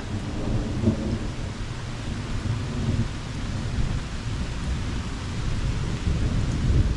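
Thunder rumbling continuously, with steady rain falling.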